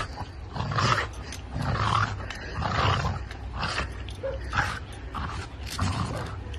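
A dog growling in short bursts, about one a second, over a steady low rumble.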